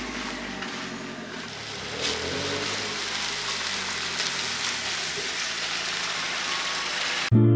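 A car engine running under a steady broad hiss. Music cuts in suddenly near the end.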